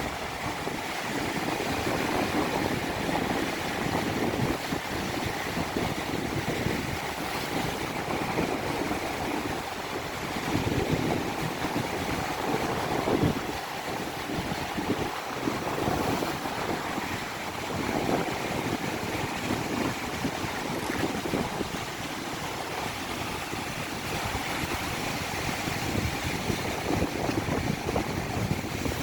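Rough sea surf breaking and washing continuously, with wind buffeting the microphone in uneven gusts.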